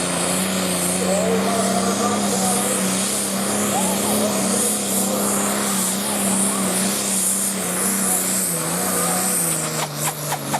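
Turbocharged diesel pulling tractor running flat out under full load as it drags the weighted sledge, with a steady high engine note. Near the end the note drops as the revs fall and the engine comes off load, with a light clatter.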